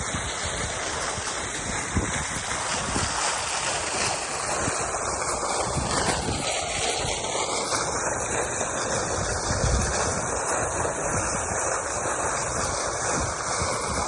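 Water fountain splashing, a steady rushing hiss, with low buffeting from wind on the microphone.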